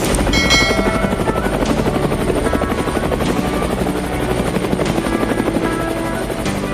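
Helicopter rotor chopping steadily, a fast even beat of about seven or eight pulses a second.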